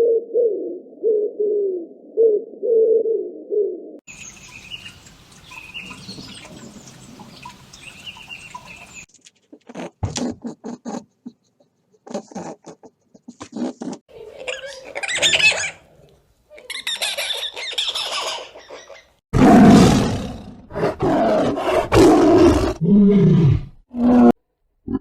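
A run of different animal calls, one after another: high bird chirping in the first part, then loud roaring calls near the end.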